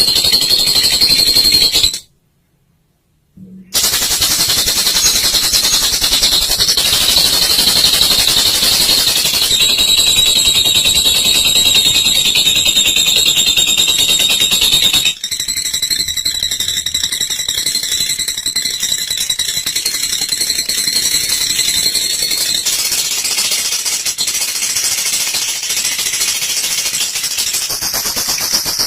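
Olive lovebird singing its long ngekek: fast, rattling chatter held on and on. It breaks off for a second or so about two seconds in, then resumes.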